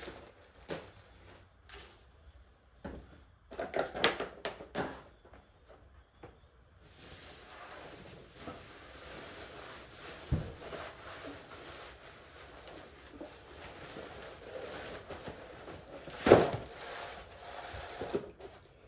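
Household handling sounds: scattered knocks and clicks, like cupboards or drawers being worked, then a steady hiss from about seven seconds in, with one loud knock near the end.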